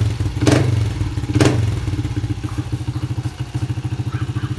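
Pit bike engine idling with a steady, even pulse. Two short sharp sounds stand out about half a second and a second and a half in.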